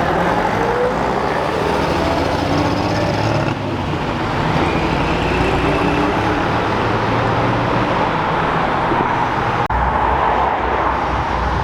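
Car engines revving and pulling away, their pitch rising and falling as they change gear, over a steady background of traffic noise. There is a brief drop about a third of the way in and a sharp click near the end.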